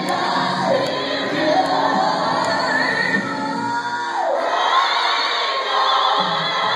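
Live gospel worship music: singers holding and sliding long notes over the accompaniment, with the congregation joining in.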